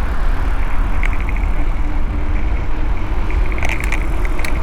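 Wind rushing and buffeting over a handheld camera's built-in microphone while riding a bicycle, a loud steady rumble. Short runs of rapid ticking come through about a second in and again near the end.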